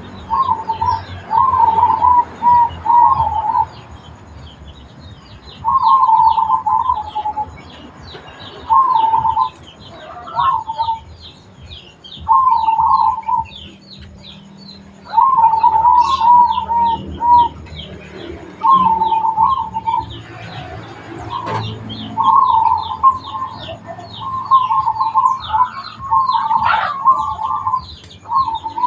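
Zebra dove (perkutut) cooing in repeated warbling phrases with short pauses between them, running almost without a break near the end. A rapid, steady run of high chirps from small birds goes on behind.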